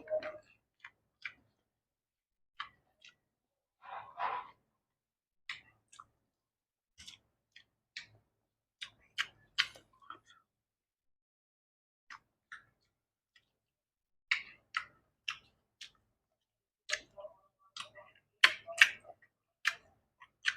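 Close-miked eating: irregular wet mouth clicks and small chewing sounds from a person chewing food.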